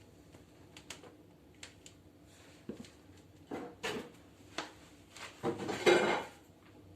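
Scattered sharp crackles and knocks of firewood at a fireplace stove being lit, with a louder clattering scrape about six seconds in.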